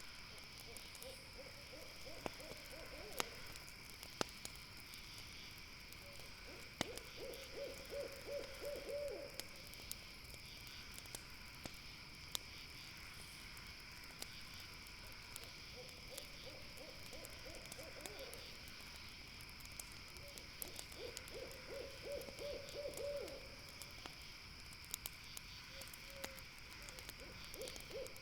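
An owl calls in a rapid trill, each run about two seconds long and repeated about every five seconds. Behind it runs a steady high chirring of night insects, with a few sharp pops from a crackling campfire.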